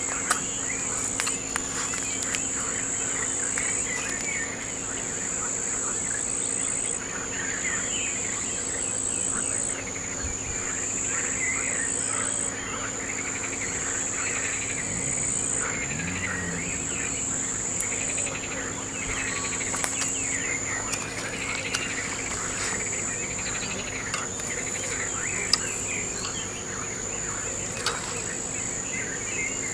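Outdoor ambience: a steady, high-pitched insect trill that shifts slightly in pitch every second or two, over many short birdsong chirps, with a few sharp ticks.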